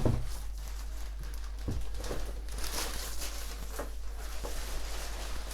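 Handling noise from unboxing a robot vacuum's auto-empty station: packaging and plastic rustling with a few light knocks, over a steady low hum.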